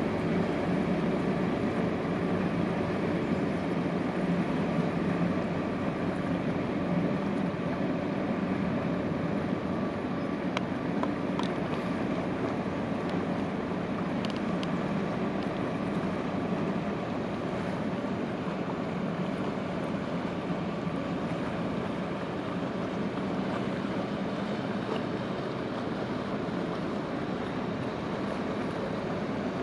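Inland motor barge underway: a steady engine drone mixed with water rushing along the hull.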